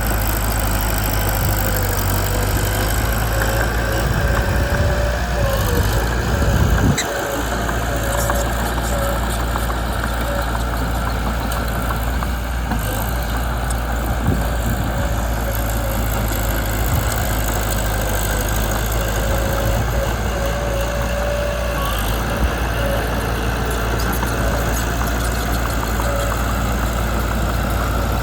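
Mitsubishi BD2 bulldozer's diesel engine running steadily. It rises to a louder stretch that cuts back sharply about seven seconds in, then drones on evenly.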